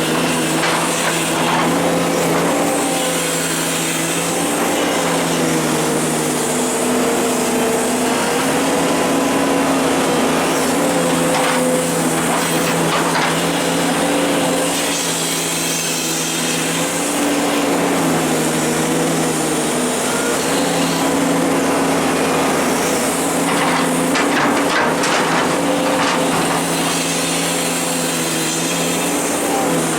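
Hydraulic excavator's diesel engine running steadily under working load, its pitch wavering slightly, with occasional knocks and scrapes, a cluster of them a little before the end.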